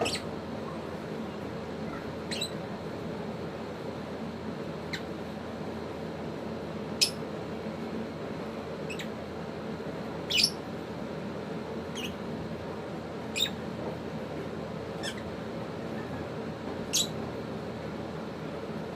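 Pet African lovebirds giving short, sharp, high chirps every second or two, about ten in all, over a steady low hum.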